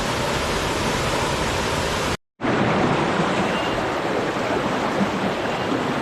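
Waterfall rushing steadily, broken by a brief total dropout about two seconds in where the recording cuts.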